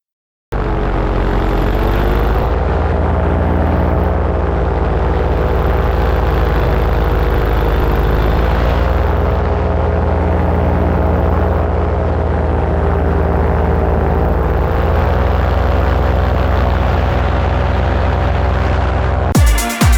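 Paramotor engine and propeller running steadily, its pitch drifting slightly up and down; it cuts in abruptly about half a second in. Near the end it gives way to electronic music with a regular thumping beat.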